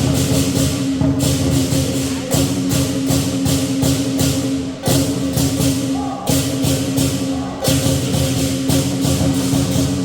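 Lion dance percussion: a drum and clashing cymbals beaten in a fast, steady rhythm, with brief breaks about five, six and seven and a half seconds in.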